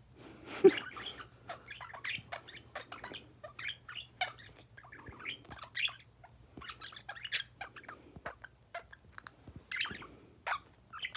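Pet birds chirping and squawking in short, scattered calls. There is one sharp knock about a second in.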